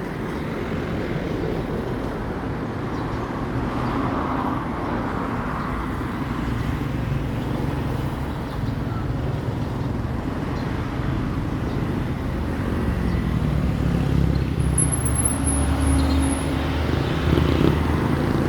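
Road traffic: motor vehicle engines running steadily, with the rumble growing louder in the last few seconds as a vehicle comes near. About fifteen seconds in there is a brief high-pitched squeak.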